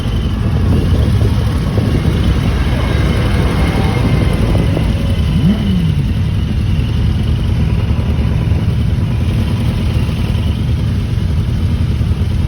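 Many motorcycle engines running together in a steady low rumble, with one engine briefly dropping in pitch about halfway through.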